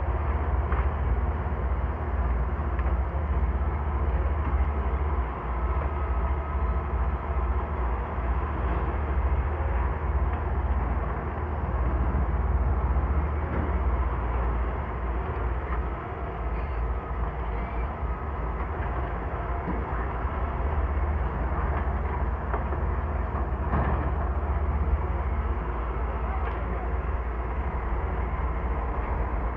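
Doosan DX140 excavator's diesel engine running steadily while working, a deep continuous rumble with a few faint knocks now and then.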